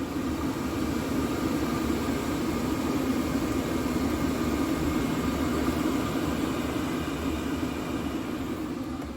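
Scania R500 truck's 13-litre six-cylinder diesel running with road and mechanical noise, a steady rush that swells up and then fades away near the end.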